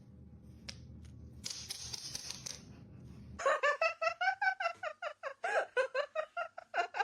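A parrot cackling in a rapid run of laugh-like 'ha-ha' calls, about five a second, starting about three and a half seconds in. It is mimicking laughter. Before that, soft rustling with a brief hiss.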